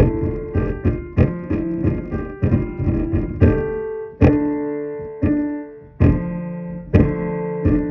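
Electric keyboard played in a piano voice: a run of quick notes, then slower chords struck about once a second that ring and fade.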